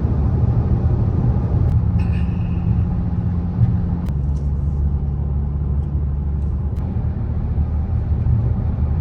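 Car being driven on the road: a loud, steady low rumble of engine and road noise.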